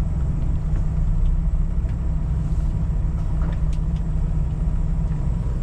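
Steady low rumble of a Kenworth T680 semi truck heard from inside its cab, with a few faint clicks.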